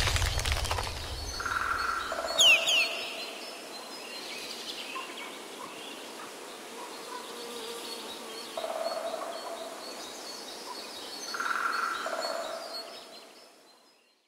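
Outdoor nature ambience with birds calling, including a short run of quick chirps about two seconds in and a few short repeated calls; it fades out near the end.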